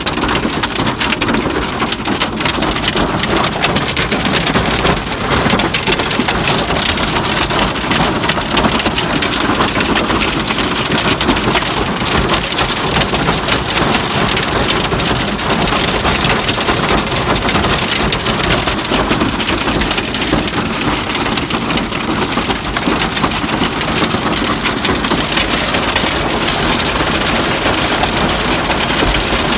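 Heavy hail pelting a car's roof and body, heard from inside the car: a loud, dense, steady patter of ice stones with no letup.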